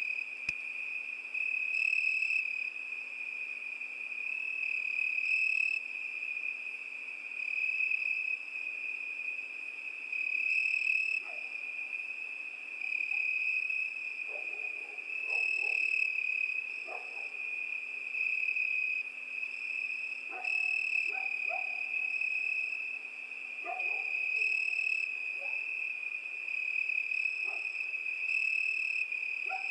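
Crickets chirping in a continuous high-pitched trill that swells and fades every few seconds. Starting about a third of the way in, short lower calls from another night animal are scattered over it.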